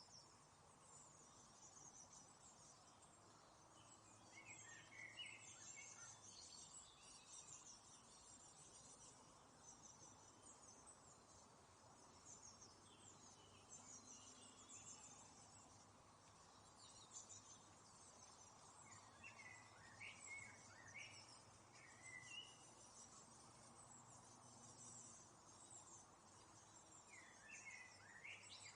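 Faint chirping and twittering of small birds, scattered high calls throughout with a few louder bursts of chirps, over a light steady hiss.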